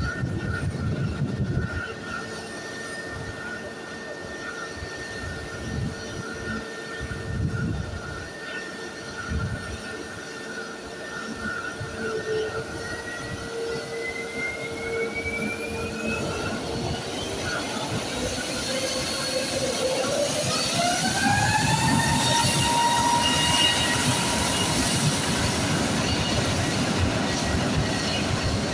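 Airbus A320 jet engines whining steadily, then spooling up: the whine rises in pitch twice, about halfway through and more strongly about two-thirds of the way in, and grows louder as the engines build to take-off thrust. Low gusts of wind buffet the microphone during the first third.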